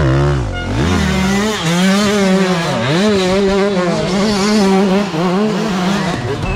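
Enduro dirt bike engine revving hard under load, its pitch wavering up and down with the throttle, with sharp drops and climbs near the start and about three seconds in.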